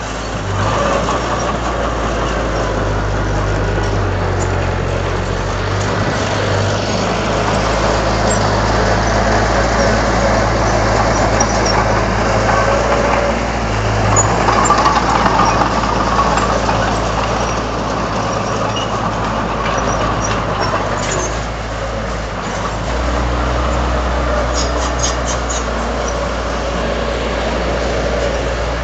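Diesel engine of heavy earthmoving machinery running under work. Its low note steps up and down several times as the load changes.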